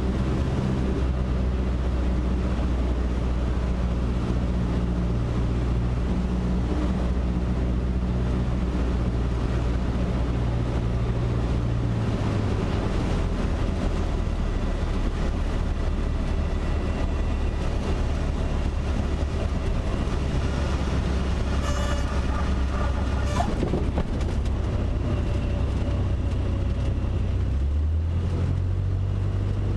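Cessna 152's four-cylinder Lycoming O-235 engine and propeller heard in the cockpit, running at low power with a steady drone. The drone drops in pitch about 12 seconds in and rises again a couple of seconds before the end as the power is changed.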